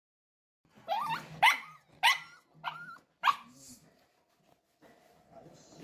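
A dog barking five times in quick succession: short, high-pitched barks, then it stops.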